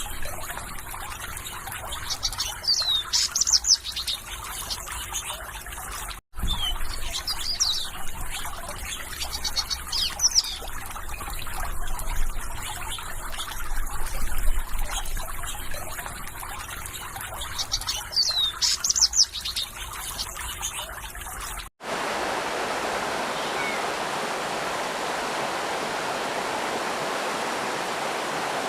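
Water trickling and babbling in a stream while a bird sings bursts of quick chirps and falling whistles now and then. About 22 seconds in this switches to the steady, even rush of a waterfall.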